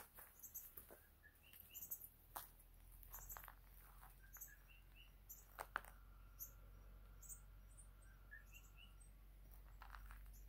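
Faint outdoor ambience with small birds chirping: short, high chirps, often in pairs, repeating every second or so.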